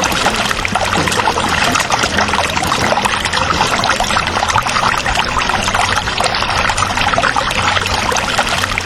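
Water from a mini water pump splashing and trickling steadily into a miniature pond, over a low steady hum.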